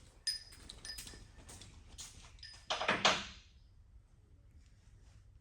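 Main bearing caps of a Cummins ISX diesel being handled and set onto the engine block: a few light ringing metal clinks, then about three seconds in a louder, brief scraping clunk as a cap goes into place.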